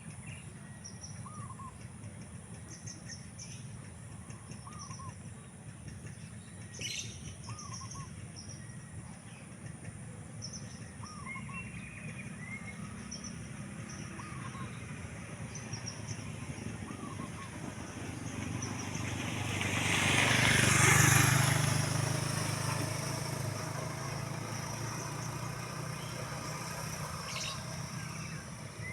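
Birds calling in open country, among them a short hooked call repeated every couple of seconds and scattered higher chirps. Past the middle, a motor vehicle passes, swelling to the loudest point and then fading, with a low engine hum trailing after it.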